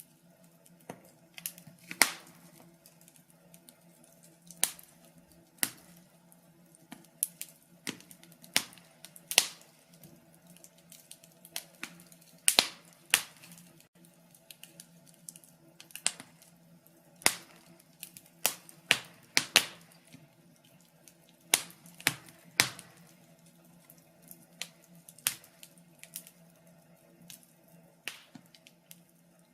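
Wood fire crackling in a fireplace: sharp, irregular pops and snaps, some louder than others, over a faint steady low hum.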